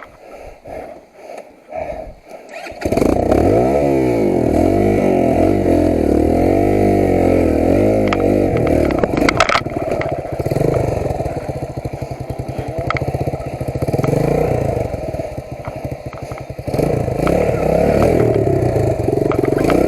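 Off-road motorcycle engine that comes in abruptly about three seconds in, after a few seconds of heavy breathing, then runs with the revs rising and falling repeatedly as the bike works over rough, rocky trail.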